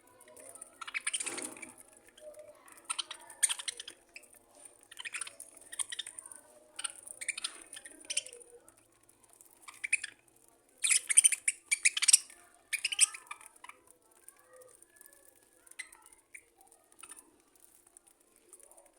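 Budgerigars chirping and chattering in a string of short, high bursts, busiest and loudest about eleven to thirteen seconds in, then thinning out.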